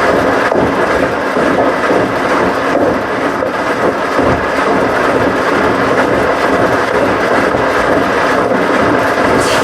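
Washing machines running: a loud, steady rumble that does not let up.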